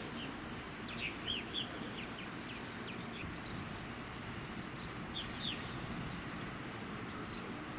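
Small birds chirping: a cluster of short, high chirps about a second in and a couple more around five seconds in, over a steady low outdoor rumble.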